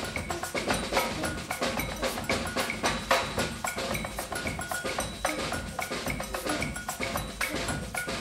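Percussion music: a dense stream of quick drum and wooden strikes over ringing pitched notes.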